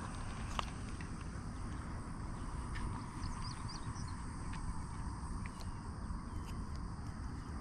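Outdoor ambience at a pond: a steady low wind rumble on the microphone, faint short bird chirps about three seconds in, and a few light clicks of handling.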